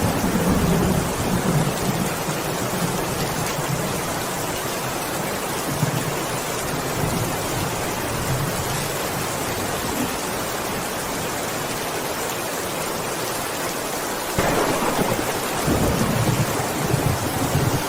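Heavy rain falling steadily, a dense even hiss with a low rumble underneath. It turns abruptly louder about fourteen seconds in.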